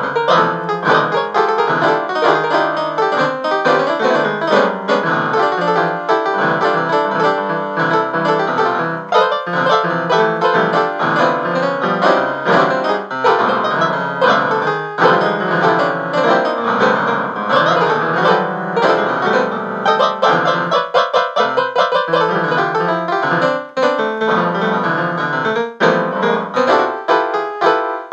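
Piano music, a busy run of quick notes played throughout.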